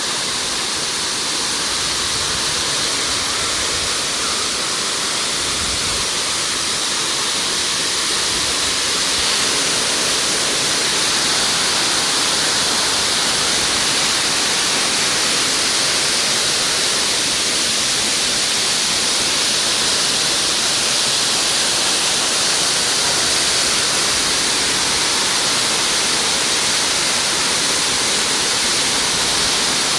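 Waterfall: water falling and rushing in a steady, unbroken roar of noise, growing slightly louder over the first ten seconds.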